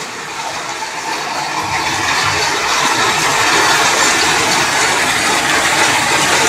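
Heavy rain with pouring water, a steady rushing hiss that swells a little over the first few seconds and then holds.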